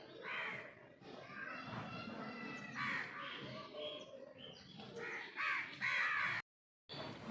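Repeated animal calls, several short arched cries in a row, broken by a brief cut to silence near the end.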